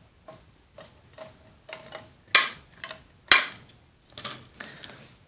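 Light taps and clicks of a paper displacer on its wire rod, moved inside a tin-can displacer cylinder to show its loose fit. Two sharper clicks come about two and three seconds in.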